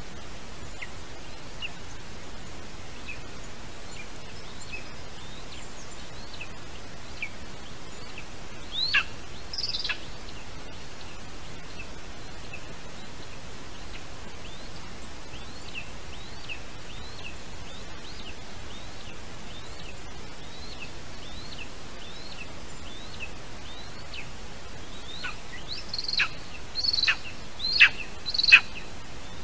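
Bird calls over a steady hiss: faint short high chirps repeat about once a second, with louder sharp downward-sweeping calls about nine seconds in and a cluster of four near the end.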